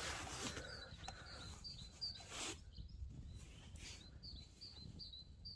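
A small songbird calling: short, high chirps repeated about twice a second, faint.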